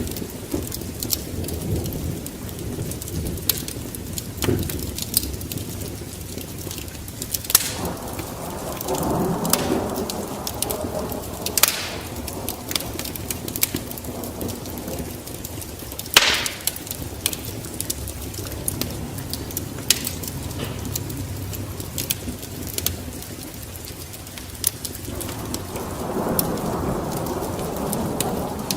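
Crackling wood fire with steady rain, and thunder rumbling in swells. Sharp pops run throughout, with the strongest about 7, 12 and 16 seconds in. The thunder rises once about 8 seconds in and again near the end.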